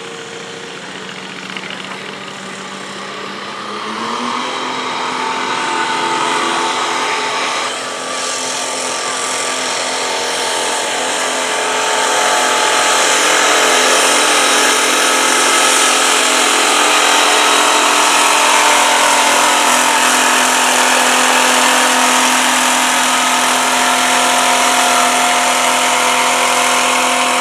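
Turbo-diesel garden tractor engine running hard under load while pulling a stoneboat. It revs up about four seconds in, then holds a steady pitch and grows louder.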